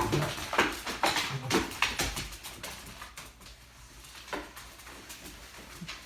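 Two dogs tugging on a rope toy: scuffling of paws and toy in quick short bursts, with a few short low growls in the first two seconds, then fewer and softer scuffs.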